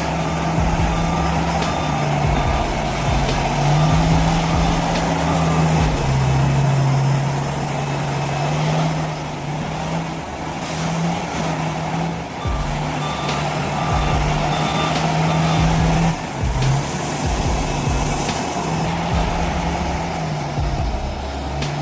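Heavy truck engine running, with a reversing alarm beeping at an even pace for stretches.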